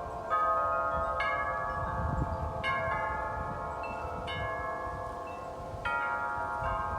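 Wind chimes ringing in gusty wind, their metal tubes struck afresh every second or two so that overlapping tones keep sounding. Low gusts of wind rumble underneath.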